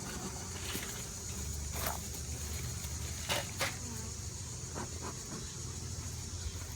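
Honey bees buzzing steadily around an open hive, with a few sharp clicks about two and three and a half seconds in.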